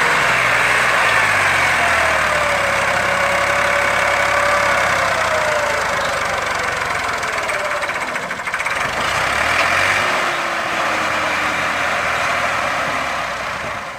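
Massey Ferguson 260 Turbo tractor's three-cylinder diesel engine running steadily while hauling a heavily loaded sugarcane trolley, with a whining tone that slowly drops in pitch. The sound fades out near the end.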